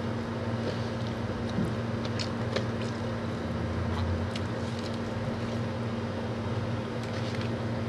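A steady low hum runs throughout, with faint, scattered small clicks and ticks over it from chewing and handling a chicken wrap.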